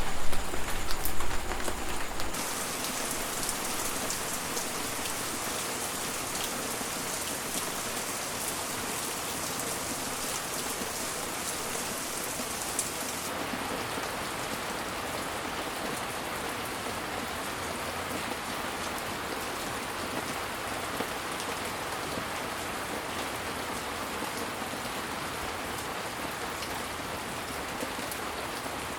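Steady, dense rainfall hissing evenly. A louder low rumble underlies the first two seconds and cuts off suddenly, leaving only the rain.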